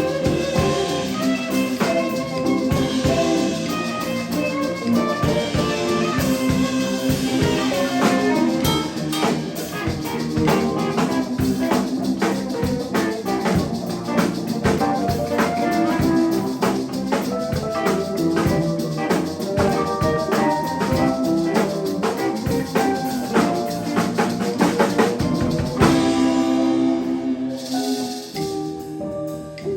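Live band jam: a drum kit plays a steady beat with other instruments over it. Near the end the drums stop and only held chords carry on.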